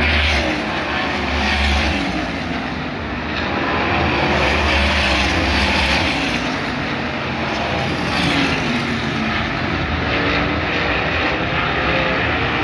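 USAC Silver Crown race cars running at speed on the track, the engine noise swelling and fading every few seconds as cars pass.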